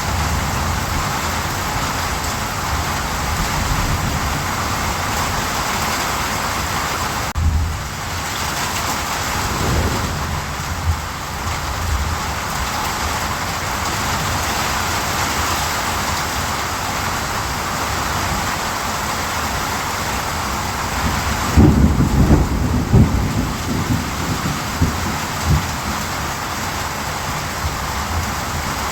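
Steady heavy rain, with low rumbles of thunder about seven to ten seconds in and a louder burst of thunder around two-thirds of the way through.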